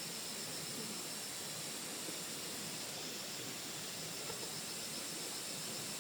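Steady hissing background noise with a faint, even, high-pitched pulsing tone running through it.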